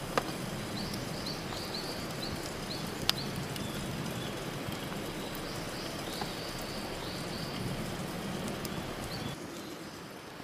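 Forest ambience: a steady rushing background noise, with a small bird giving a run of short, high, repeated chirps and a couple of sharp snaps.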